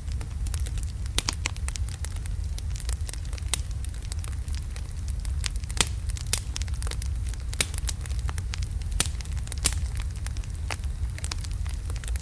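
Wood logs burning in a fireplace: a steady low rumble of the flames with frequent irregular sharp crackles and pops.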